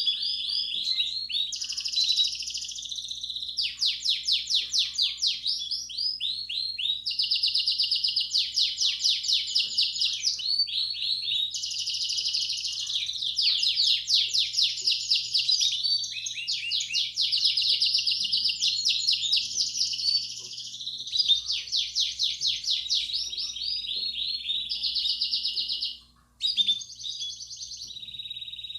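Belgian canary singing a continuous song of rapid trills, one run of quickly repeated notes giving way to another every second or two. The song breaks off for a moment near the end, then resumes.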